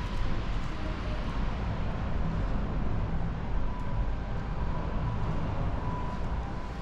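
Steady low rumble of a vehicle in motion, with a faint thin whine coming in about four seconds in and again near the end.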